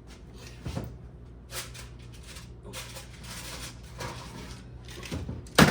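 Kitchen handling sounds while a pan of baked biscuits is taken out of the oven: a few soft rustles over a low steady hum, then a loud clatter near the end.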